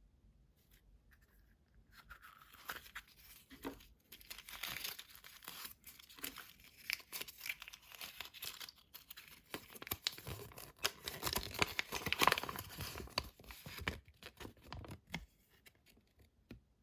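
Surprise egg's wrapper being torn open and crinkled by hand: dense crackling and ripping for about twelve seconds, loudest near the end, then a few light clicks.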